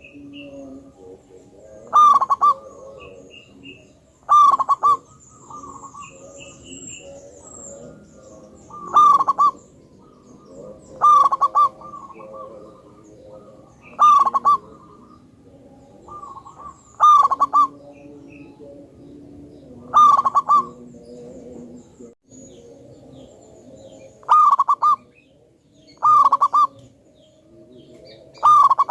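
Zebra dove (perkutut) singing: about ten short, loud cooing phrases of several quick notes, repeated every two to three seconds. Softer, lower cooing carries on between them.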